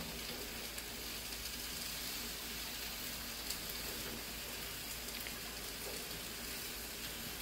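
Sliced mushrooms and onions frying with a steady sizzle in a pan, with a few light taps of the spatula as they are stirred.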